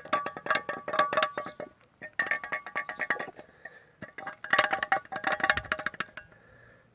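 Loose shock-absorber cartridge knocking and clinking inside a VAZ 2114 collapsible front strut housing, in three bursts of rapid metallic clatter with a ringing tone. The knock comes from the strut's retaining nut having worked loose.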